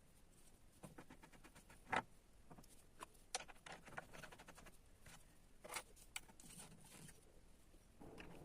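Scattered light clicks and taps of handling at a stopped mini lathe, with one sharper click about two seconds in.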